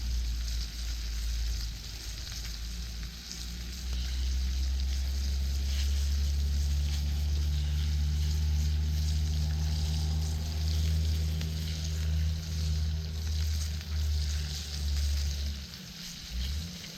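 Food sizzling and frying in a pan over a campfire. A strong, steady low rumble runs beneath it, at its loudest from about four seconds in until shortly before the end.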